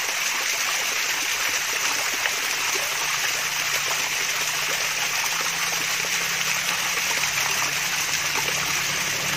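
Water from a mini waterfall splashing and trickling steadily.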